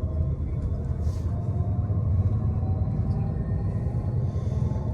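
Steady low rumble of a car driving along a town road, heard from inside the cabin.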